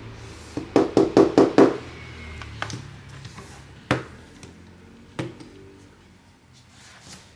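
Sharp taps of hard objects on a hard surface: a quick run of about five near the start, then three single knocks a second or so apart.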